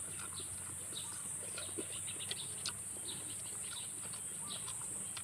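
Outdoor ambience: many short bird chirps scattered throughout, over a steady high-pitched hiss and a low hum.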